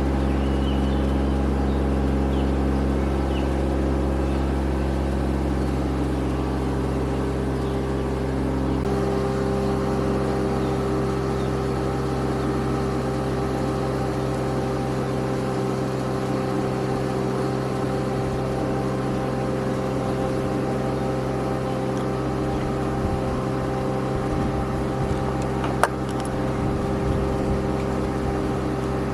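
A motor running steadily, its tone shifting slightly about nine seconds in, with a single sharp click near the end.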